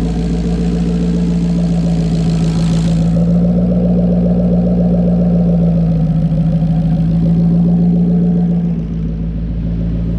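Turbocharged S550 Ford Mustang engine idling steadily on its first start-up with a new ON3 single-turbo kit, running on a base tune and idling pretty good. A hiss over the idle stops about three seconds in.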